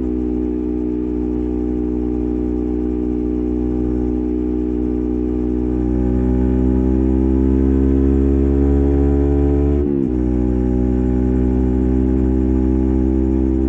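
Yamaha MT15's single-cylinder engine running through an SC Project full-system exhaust with silencer, holding a steady note, then rising slowly in pitch as the bike accelerates. About ten seconds in, the pitch drops sharply as it shifts up a gear, then the note holds steady again.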